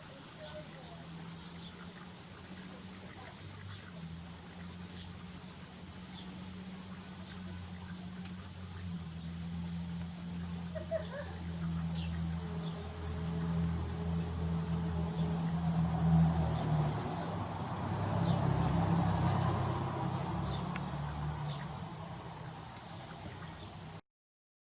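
Crickets chirping: a steady, fast-pulsing high trill that keeps on evenly. Under it a low rumble grows louder in the second half. Everything cuts off abruptly just before the end.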